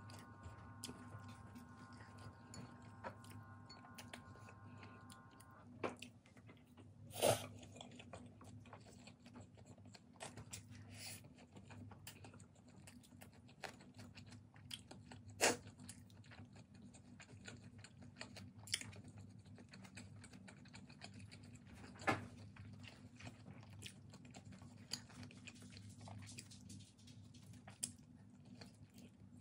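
Close-up chewing and eating sounds of noodles and boiled pork, with a few sharp clicks of chopsticks against bowls and the wooden board, the loudest at about seven and fifteen seconds in. A steady low hum runs underneath.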